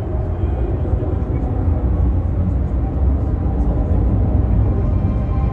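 Embraer KC-390 Millennium's twin IAE V2500 turbofan jet engines running during a flying display: a loud, steady, deep rumble.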